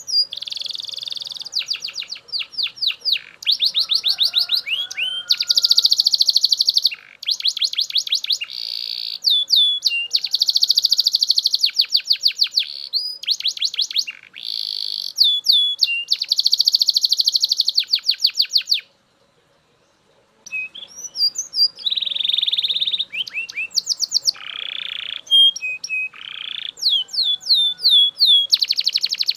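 Male Belgian canary singing: fast trills of rapidly repeated notes strung together phrase after phrase, with a pause of about a second and a half about two-thirds of the way through.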